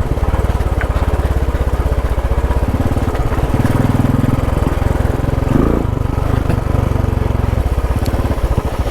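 Motorcycle engine running at low speed with a fast, even thump, growing louder for a couple of seconds near the middle, with a brief rise in pitch.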